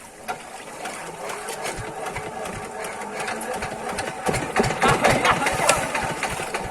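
Diesel water-pump engine starting up and running, its rapid knocking strokes growing steadily louder, loudest from about four seconds in. It has stood unused for a long time and has water in its silencer.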